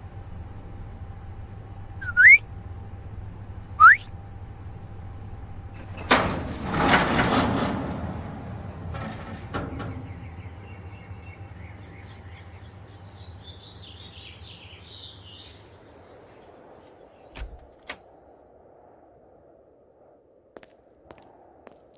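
A young bird chirps twice, two short rising chirps about a second and a half apart. A few seconds later a sudden loud rush of noise sets in and fades over a couple of seconds, followed by a few scattered clicks over a low hum that dies away.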